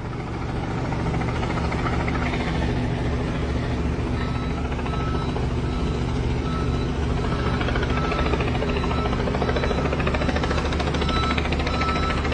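Steady low engine rumble runs throughout. From about four seconds in, short high beeps repeat every second or so.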